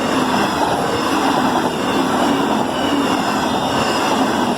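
Queensland Rail electric suburban train passing the crossing close by at speed: a loud, steady rush of wheel and rail noise that begins to fade just after the train has gone by.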